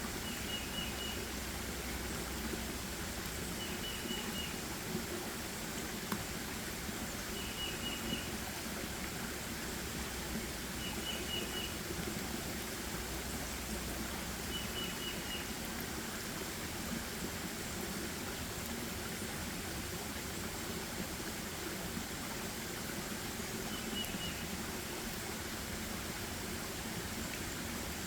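A bird repeating a short call of three or four quick, high notes, six times at intervals of a few seconds, over a steady rushing background of forest ambience.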